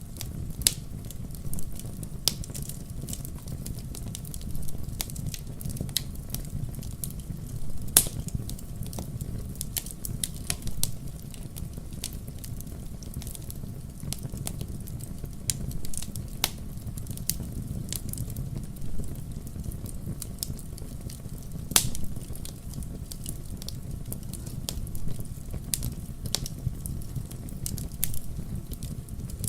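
Fire crackling in a fireplace: a steady low rumble of flames with irregular sharp pops and snaps. The loudest pops come about 8 seconds in and again about 22 seconds in.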